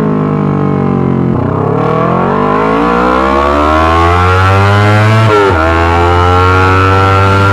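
Yamaha R25 parallel-twin engine through a Racefit Slash aftermarket exhaust, pitch climbing steadily under acceleration. The pitch drops suddenly twice, about a second in and again about five seconds in, as at gear changes.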